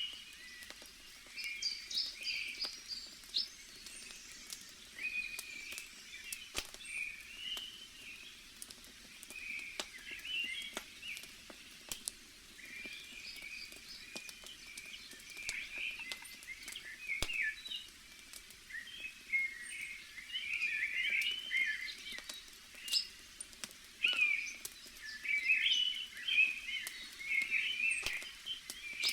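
Forest ambience of many small birds chirping and calling, with sharp campfire crackles now and then over a soft steady background noise.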